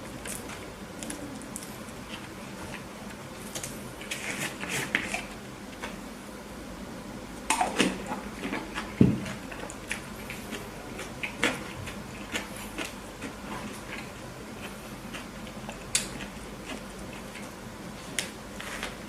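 Close-miked sounds of burgers being handled and eaten for ASMR: scattered soft crinkles and clicks, with a louder cluster about halfway through that ends in a dull knock.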